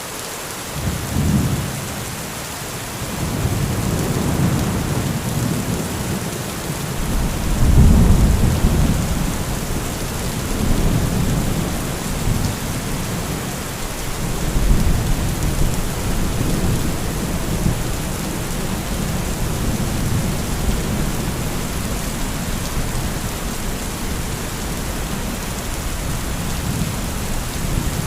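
Heavy thunderstorm: steady heavy rain with rolling thunder. A short rumble comes about a second in, then long deep rumbling builds and is loudest about eight seconds in, swells again around fifteen seconds, and keeps rolling under the rain.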